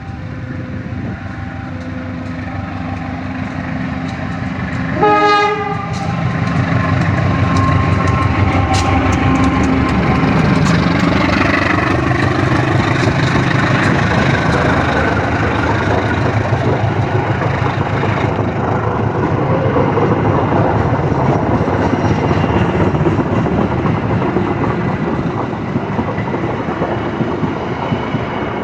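Passenger train hauled by a KAI CC206 diesel-electric locomotive. A short horn blast sounds about five seconds in. Then comes the steady rumble and clickety-clack of the train running past, loudest in the middle.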